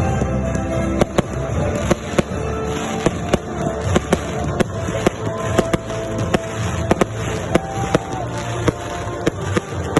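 Fireworks battery cake (Эсминец FP-B331) firing a steady series of sharp bangs, about two a second, over loud music.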